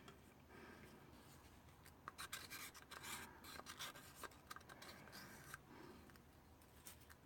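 Faint rubbing and scraping with a run of light clicks in the middle, from handling acrylic pour paint and its cups at the work table.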